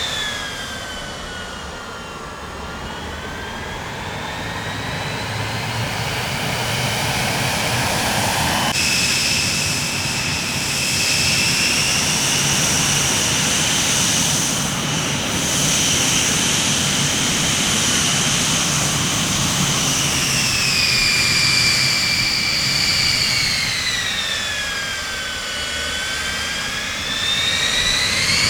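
Jet airliner engines running, a steady rush with a high turbine whine that falls and rises in pitch. The sound changes abruptly about nine seconds in, then the whine holds fairly steady before dipping and rising again near the end.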